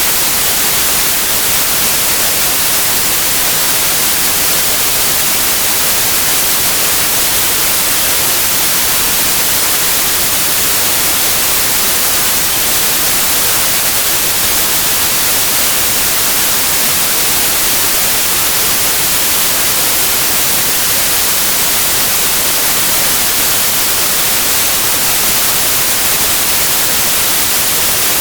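Pure white noise: a steady, even hiss, brightest in the highest frequencies, with no melody or rhythm.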